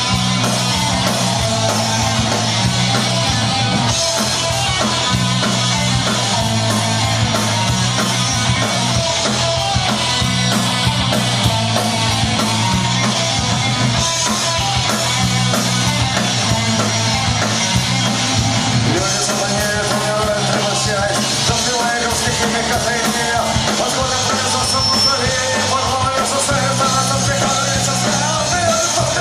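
A live punk rock band playing loudly and continuously through an instrumental stretch of a song, with a repeating bass line that shifts to a new figure about two-thirds of the way through.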